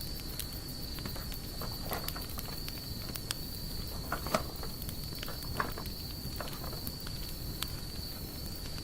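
Wood campfire crackling with scattered sharp pops, the loudest about four and five and a half seconds in, over a low rumble. A steady high insect buzz runs underneath.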